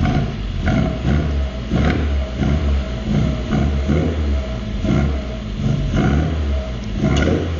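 Classic Mini's 1275 A-series four-cylinder engine running with a steady low drone that surges rhythmically about twice a second.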